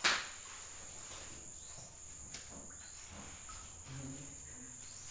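A steady high-pitched trill runs under faint low murmuring, with a sharp click right at the start.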